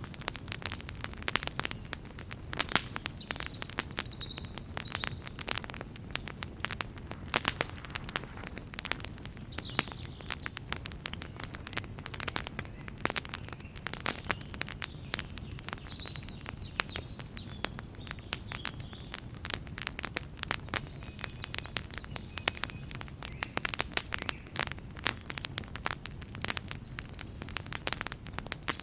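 Wood campfire crackling: dense, irregular snaps and pops over a steady low rumble of burning, with a few faint high chirps now and then.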